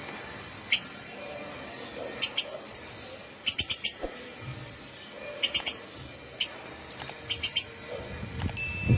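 Lovebirds chirping: short, shrill calls, some single and some in quick runs of two to four.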